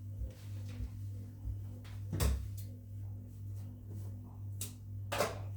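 A few sharp knocks from household items being handled during cleaning, the loudest about two seconds in and another near the end, over a steady low hum.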